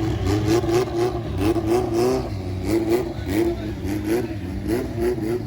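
Car engine revving in quick, repeated throttle blips, its pitch rising over and over, about two or three times a second.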